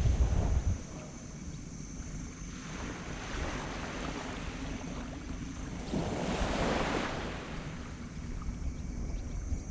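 Small tropical waves washing onto a black sand beach, one surge building about six seconds in. Under the wash runs a low rumble, strongest in the first second.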